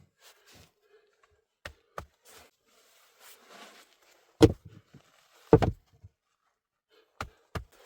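A handful of irregular knocks and thuds, the two heaviest about four and a half and five and a half seconds in.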